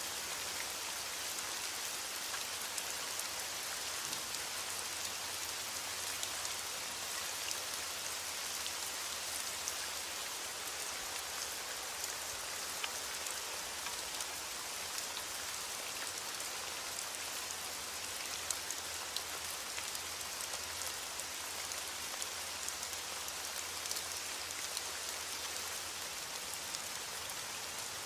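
Heavy rain falling steadily on window glass, an even hiss with scattered sharp ticks of single drops.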